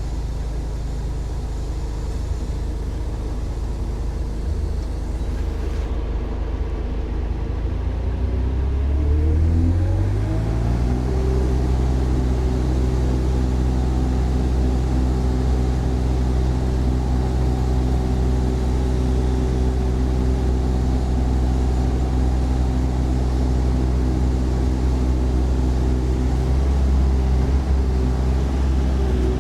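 Yanmar diesel engine of a mini excavator running at idle, then revved up smoothly over a couple of seconds, about a third of the way in, and held at a higher steady speed.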